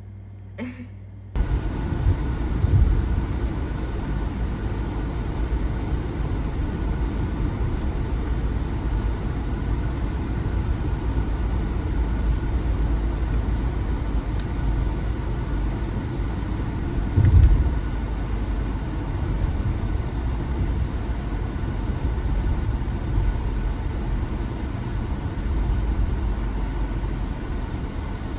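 Steady low rumble of a car running, starting abruptly a little over a second in, with a brief louder swell about 17 seconds in.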